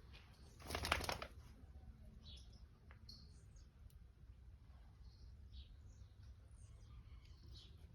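Faint, short, high bird chirps scattered through, over a low steady rumble, with a brief loud rustle about a second in.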